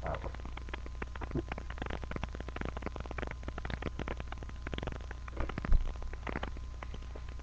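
Food frying in a pan: a dense, steady crackle of small pops and spits of hot grease over a low hum, with one louder knock about five and a half seconds in.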